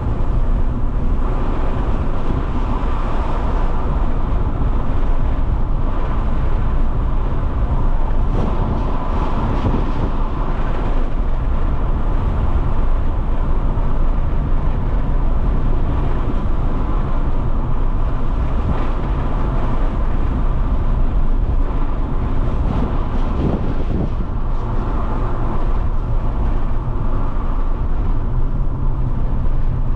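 Alfa Romeo 156's 1.8 Twin Spark four-cylinder petrol engine running steadily while the car is driven, with road and tyre noise; the engine note shifts a little now and then.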